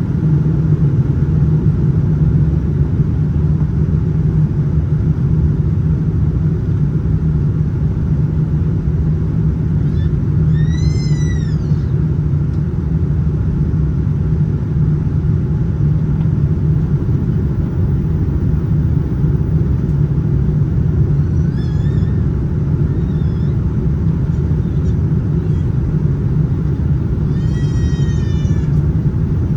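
Steady low rumble of engine and airflow noise inside a Boeing 787-9 airliner's cabin in flight. Three times, about a third of the way in, about two-thirds in and near the end, a short high-pitched cry rises and falls over it.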